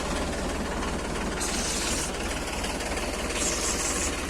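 Diesel engine idling steadily with an even, regular knock, while water is fed into a tractor tyre from a sprayer drum. A hiss comes and goes twice over the engine.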